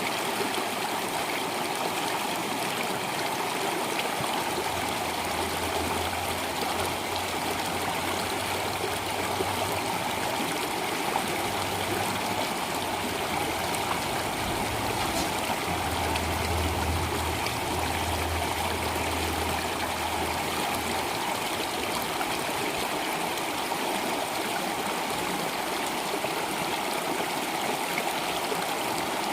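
Flowing water, a steady unbroken rush and trickle like a stream.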